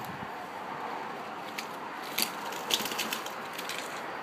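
Light rustling and crackling of debris being handled in a dryer vent, with a few scattered clicks over a steady background hiss.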